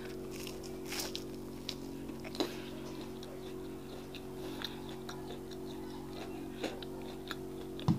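Close-miked biting and chewing of akara (fried bean fritter), with scattered soft crackles and wet mouth clicks over a steady low hum.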